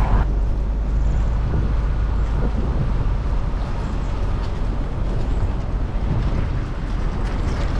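Nissan Pathfinder driving along a forest road, heard from inside the cabin: a steady low rumble of engine and tyres with a few faint knocks.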